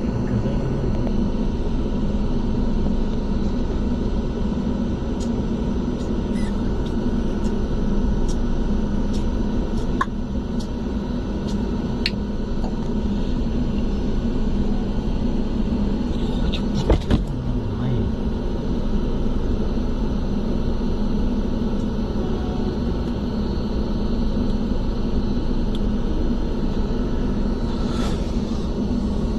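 Steady rumble of an LHB passenger train running, with a few sharp clicks and a short knock about 17 seconds in.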